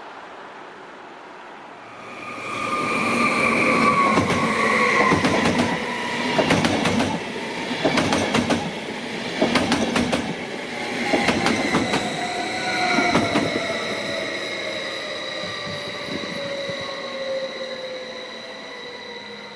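Double-deck passenger train running past: wheels clacking over rail joints and points again and again, with whining tones that slowly fall in pitch as it goes by. The sound builds about two seconds in, is loudest for the next ten seconds or so, then fades.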